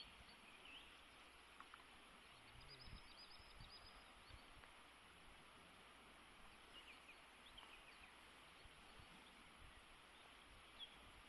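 Near silence: faint outdoor ambience with a steady hiss and a few faint, high bird chirps, including a quick run of them about three seconds in.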